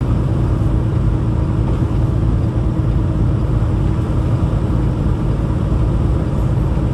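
Peterbilt 579 semi truck driving slowly, its engine and the road noise making a steady low rumble.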